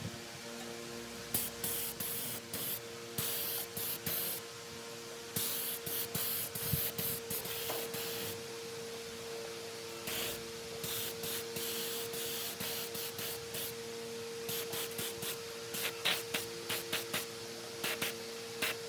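Spray paint hissing on in a series of short and longer bursts, over a steady motor hum.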